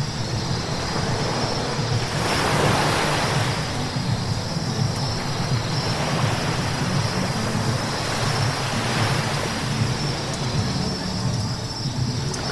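Road noise from a car driving on a wet road: a steady low rumble under a hiss of tyres on the wet surface, swelling loudest about two seconds in and again more faintly a few times, as of vehicles passing with a splash.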